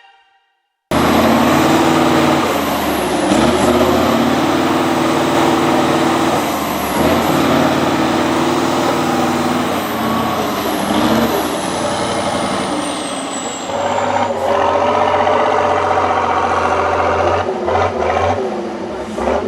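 Competition trial truck's diesel engine working hard under load, its pitch rising and falling as the revs change.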